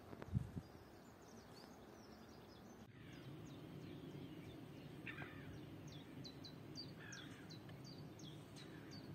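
Faint small-bird chirping: many short, high, falling calls repeating about twice a second, over a steady low background noise.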